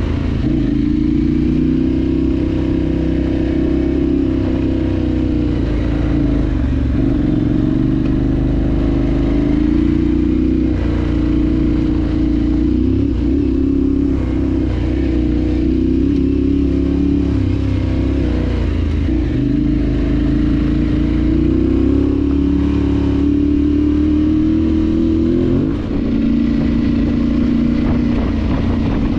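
Parallel-twin adventure motorcycle engine running under changing throttle, its pitch rising and falling, with a brief dip in revs about four-fifths of the way through.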